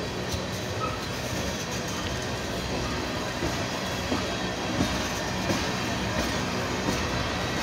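Freight train tank cars rolling past: a steady rumble of steel wheels on the rails, with light regular clicks about every three-quarters of a second in the second half.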